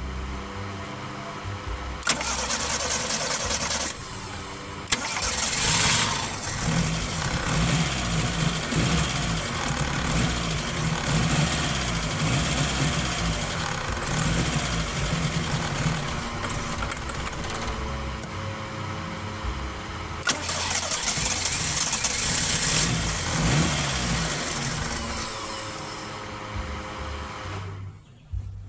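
Toyota Corolla 2E four-cylinder engine being cranked and started, starting with difficulty. There are sudden surges of engine noise about two seconds in, around five seconds and again around twenty seconds, with running in between. The engine has a hard-starting and misfiring fault.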